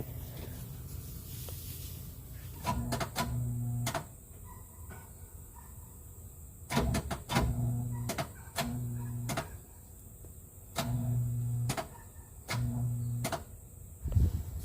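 Short electric hums, each under a second long and starting and stopping with a click, six times in a row. This fits the dump truck's starter being tried while the engine does not turn over, which the owners think may be locked up.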